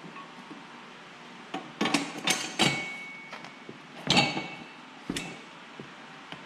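Metal clanks and knocks from a manual tire changer's bead breaker as it is levered down to break a garden tractor tire's bead off the rim. There are about half a dozen sharp strikes, starting about two seconds in, some with a brief metallic ring.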